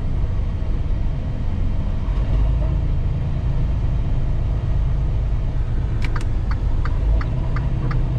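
Tractor-trailer running on a snowy, icy road: a steady low engine and road rumble. About six seconds in, a run of short, sharp clicks starts, roughly three a second.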